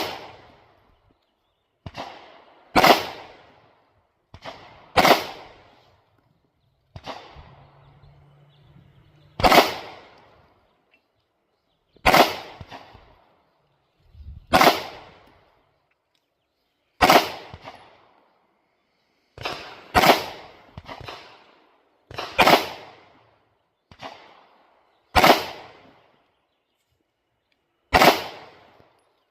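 Canik Prime pistol fired at steel targets in a slow, uneven string of about fifteen single shots, one every one to three seconds, each shot's report dying away quickly.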